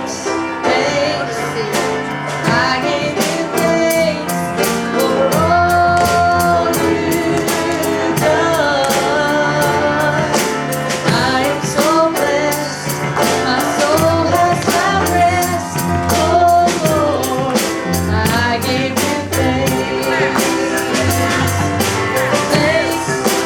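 A woman singing a gospel song with band accompaniment, a drum kit keeping a steady beat.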